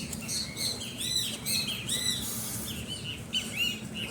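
Small birds chirping busily, many quick arched notes overlapping, over a faint steady low hum.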